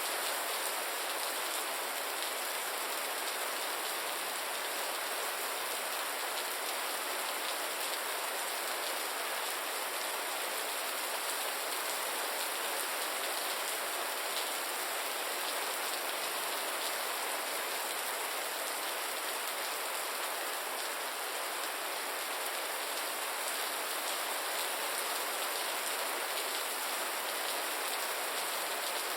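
Steady, gentle rain falling: an even hiss of many small drops, with little low rumble and no thunder.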